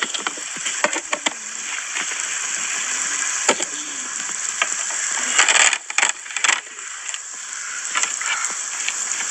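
Minced meat sizzling in a pot over a wood fire, a steady hiss, with scattered clinks and knocks of utensils and dishes, bunched together a little past halfway.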